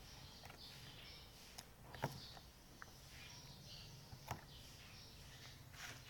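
Faint chirping of small birds, with two sharp clicks about two and four seconds in.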